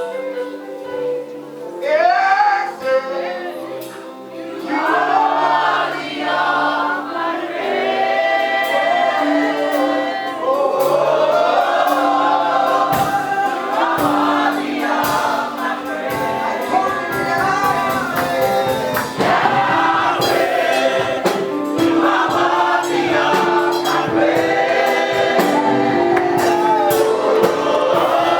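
Gospel praise music: a choir and singers over sustained keyboard chords and a steady beat.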